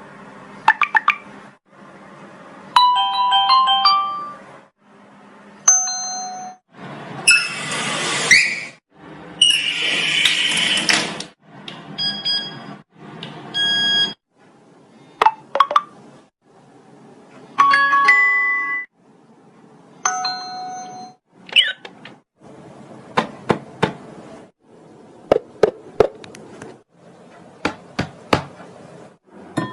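A rapid string of short, varied comic sound effects: ding- and doorbell-like chimes, two longer hissing bursts about seven and ten seconds in, and a run of sharp clicks near the end.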